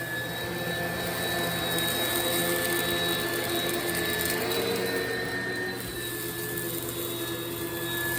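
Oreck XL upright vacuum cleaner running on carpet, a steady motor whine over rushing air, sucking crunchy kitty litter out of the carpet fibers. The sound swells and dips gently as it is pushed back and forth.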